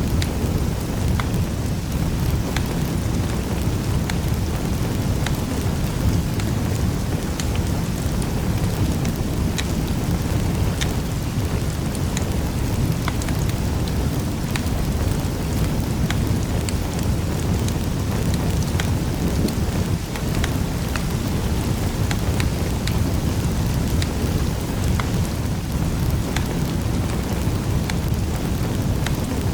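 Wood fire burning in a fireplace: a steady low rumble of flames with many scattered sharp crackles and pops.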